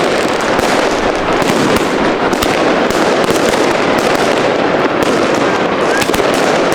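Many fireworks and firecrackers going off at once, a dense, continuous run of loud bangs and sharp cracks with no pause.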